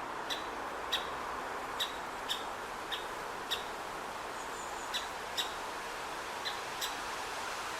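Great spotted woodpecker giving short, sharp single-note calls, about eleven at irregular intervals, over a steady outdoor background hiss.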